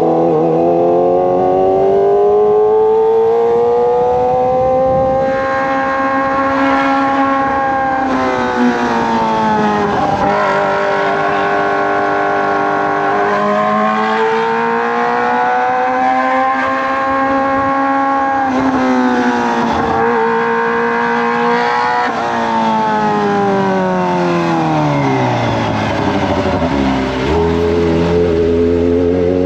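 Kawasaki ZX-25R's 249 cc inline-four through a Racefit Slash aftermarket exhaust, under way: the engine note climbs and drops back several times as the rider pulls up through the gears. Late on, the revs fall away steeply, settling to a low, steady note near the end.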